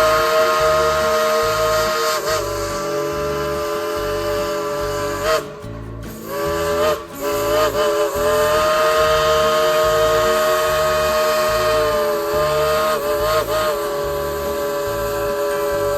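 Dollywood Express steam locomotive's whistle blowing a long chord of several notes. It breaks off briefly about five seconds in, gives a short blast a second later, then is held again, under a low rhythmic pulsing.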